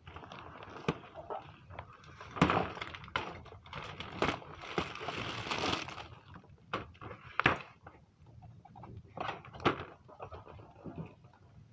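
Irregular knocks and clicks from handling a boxed adjustable utility cart and its packaging, with a stretch of rustling and crinkling about four to six seconds in.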